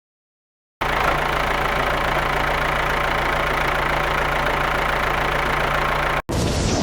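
An engine or motor running steadily with an even low hum, starting about a second in after a moment of dead silence and cutting out for an instant near the end.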